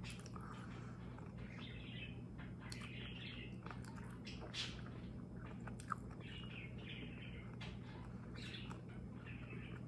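Close-up chewing of a soft wrap with the mouth closed: wet mouth clicks and lip smacks in short irregular bursts, with a sharper click about six seconds in, over a low steady hum.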